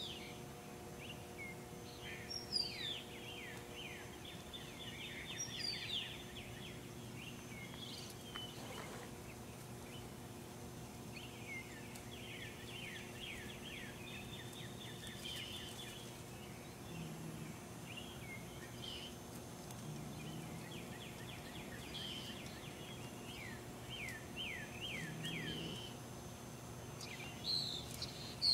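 A songbird singing several bouts of quick, repeated down-slurred notes, each bout lasting a few seconds, with single call notes between them, over a steady low hum.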